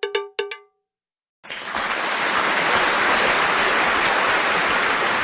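A few quick, bell-like ringing strikes stop, and after a moment of dead silence a loud, steady rush of wind on the microphone of a moving bicycle takes over.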